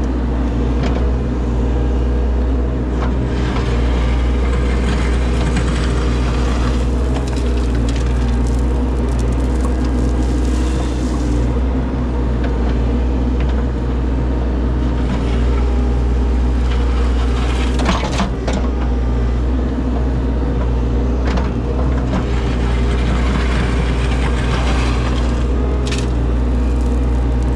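Heavy-equipment diesel engine running steadily, with scattered scraping, crunching and knocking of stone and dirt as the bucket digs out the old driveway base.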